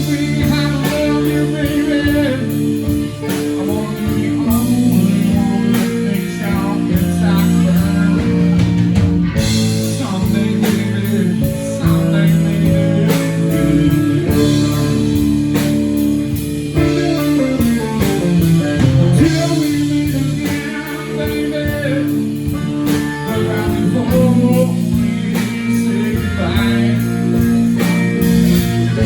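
Live blues-rock band playing a song, guitar to the fore.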